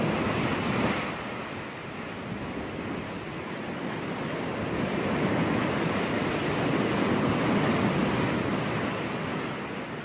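Ocean surf washing onto a beach: a wave breaks and hisses in the first second, the wash eases off, then a slow swell builds and recedes again.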